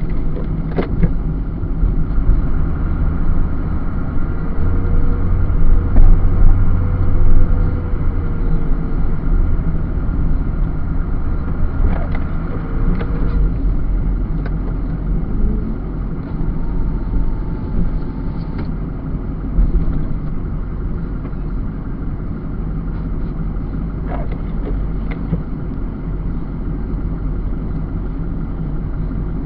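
Snowplow truck's engine running steadily while plowing with a Western 9.5-foot MVP plow. A few sharp knocks and faint short whines come now and then.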